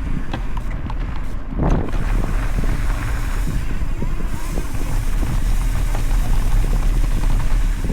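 Mountain bike rolling along a dirt trail: wind rumbling on the microphone, with the bike rattling and knocking over bumps.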